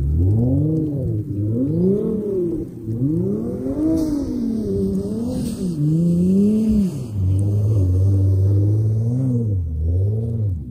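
Turbocharged Audi S5 (Precision 6466 turbo) being drifted on snow, its engine note swinging up and down in pitch again and again as the throttle is worked. About three-quarters of the way through it holds steady for a couple of seconds, then dips and climbs once more.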